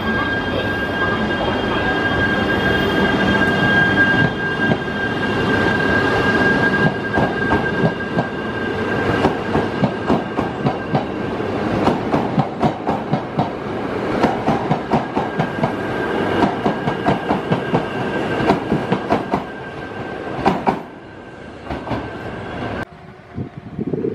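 E3-series mini-shinkansen train rolling past at a station, its wheels clicking over rail joints in a long, uneven run over a steady rumble and a thin steady whine. The sound drops away abruptly near the end.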